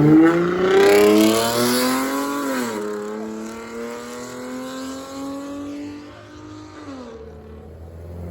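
A car accelerating hard and pulling away, its engine note climbing, dropping at an upshift just under three seconds in, then climbing again to a second shift about seven seconds in. The sound fades steadily as the car gets farther off.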